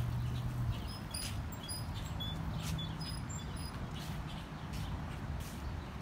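Small birds chirping, a scatter of short, high chirps mostly in the first half, over a steady low outdoor rumble.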